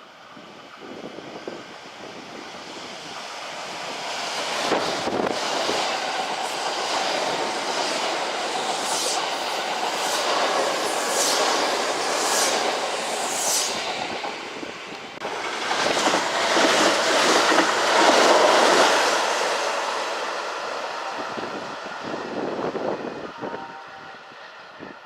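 A Kintetsu electric train running past on the rails, its wheel and track noise building over the first few seconds and holding steady. Several short high squeals come about 9 to 14 seconds in. After a brief dip there is a louder swell, and then the noise fades away.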